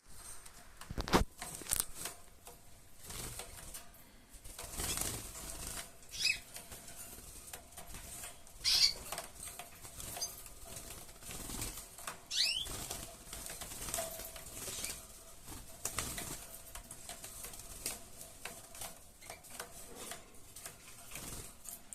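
Mosaic canaries fluttering in a cage: wings flapping amid sharp taps and knocks, with a few short chirps about six, nine and twelve seconds in.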